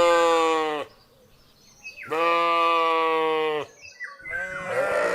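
Sheep bleating three times, each a long, steady bleat of more than a second; the last, near the end, is rougher.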